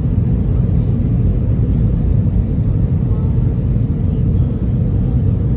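Steady low rumble of airliner cabin noise, engines and airflow heard from inside an Airbus A320 cabin during its descent.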